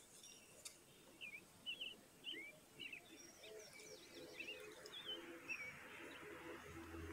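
Faint chirping of small birds: a quick string of short notes that swoop up and down, with a low hum and a faint hiss coming in about halfway.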